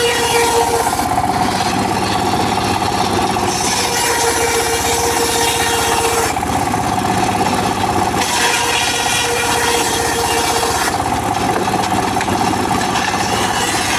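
Engine-driven circular saw of a mobile sawmill running steadily while cutting teak, the upper saw sound changing every few seconds as cuts begin and end.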